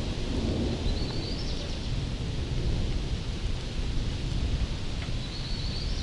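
Thunderstorm: steady rain hiss over a low rumble of rolling thunder and wind. Two short, high, rising chirps come about a second in and again near the end.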